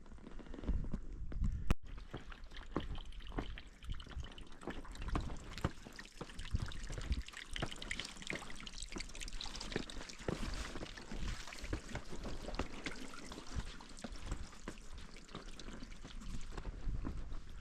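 A thin trickle of water from a small desert seep, with the hiker's footsteps scuffing and knocking on rock throughout.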